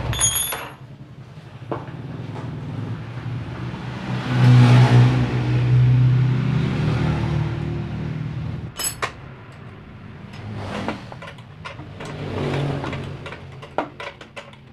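Motorcycle engine running. It swells to a louder run about four seconds in and dies down again a few seconds later, with scattered sharp clicks and knocks.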